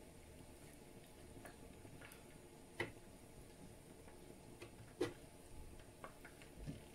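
Faint, scattered clicks and taps of a metal spoon against cookware, with two louder knocks about three and five seconds in.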